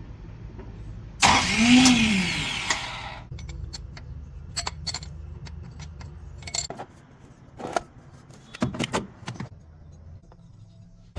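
A starter motor on a 4BC2 diesel engine runs for about two seconds, a whine rising then falling as it spins up and winds down. Scattered clicks and knocks follow.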